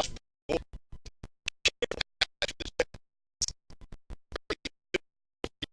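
Choppy, glitching audio: short fragments of sound cut in and out several times a second with dead gaps between, and a longer dropout about three seconds in, the sign of a failing audio feed.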